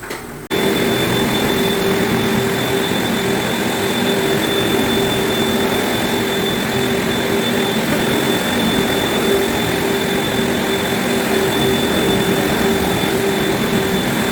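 Orbot orbital floor-cleaning machine running steadily on a hardwood floor: a loud, even drone with a thin high whine on top, switching on abruptly about half a second in.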